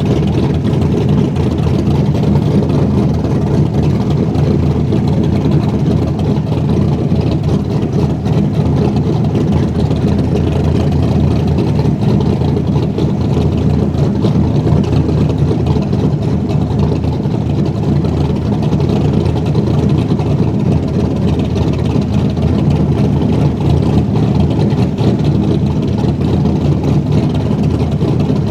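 A car engine running steadily with a low drone and no pauses.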